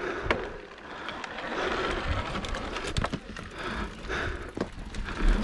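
Mountain bike riding over a dirt trail: tyre noise and rumble with scattered sharp clicks and knocks from the bike rattling.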